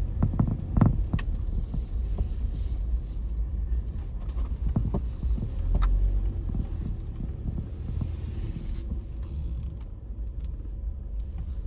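Car interior noise while driving: a steady low road and engine rumble, with scattered small clicks and creaks from the cabin.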